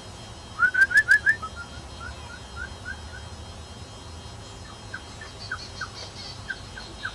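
A bird calling in short rising whistled chirps: a loud run of five about half a second in, then fainter chirps repeating about three times a second, with faint higher chatter near the end.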